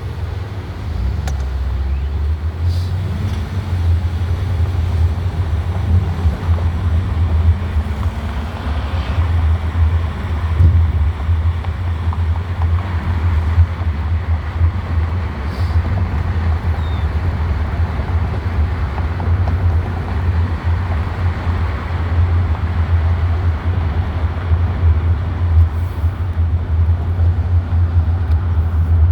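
Steady low rumble of a vehicle on the move, running without a break and a little quieter for the first second or so.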